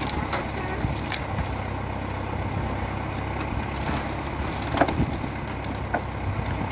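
Valmet 705 tractor's diesel engine running steadily, with a few sharp knocks heard over it.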